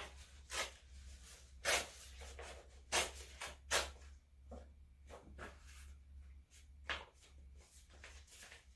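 A sheet of 1200-grit sandpaper being creased and torn by hand: several short, sharp ripping and crinkling sounds, over a steady low hum.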